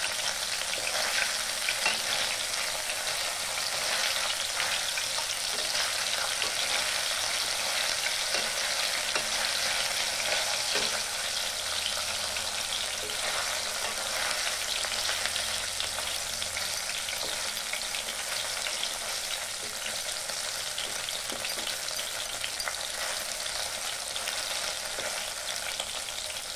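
Paneer cubes sizzling steadily as they shallow-fry in hot oil in a kadai, with a metal spatula scraping and clicking against the pan as the cubes are turned.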